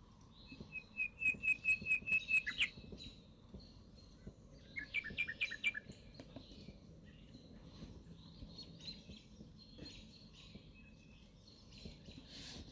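Songbirds singing: one bird gives a fast run of about ten repeated notes, then a second shorter run of falling notes a few seconds later, with fainter chirps from other birds throughout.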